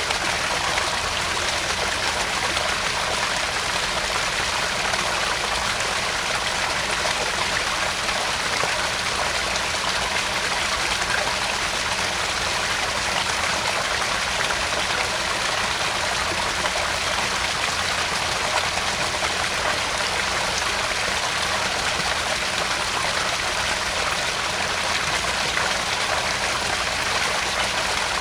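Small garden pond waterfall: water splashing and trickling steadily into the pond.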